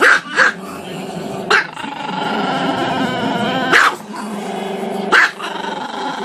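Small dog howling with its muzzle raised: a long, wavering howl broken by five short, sharp barks.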